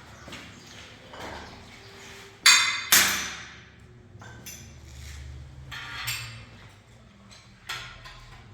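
A series of sharp knocks of hard objects, two loud ones about half a second apart near the middle with a brief ringing after each, and lighter knocks and clinks around them.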